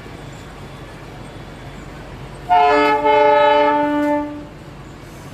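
Darjeeling Himalayan Railway toy train sounding its horn: a short blast, then at once a longer one of about a second and a half, several pitches together like a chord.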